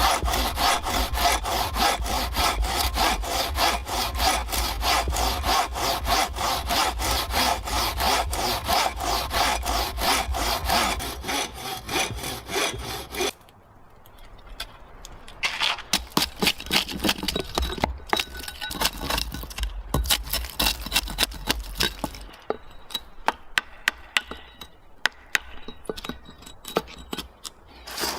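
Wood being sawn by hand in quick, even back-and-forth strokes, about four a second. The sawing stops about thirteen seconds in, then picks up again in slower, uneven strokes, with scattered sharp knocks near the end.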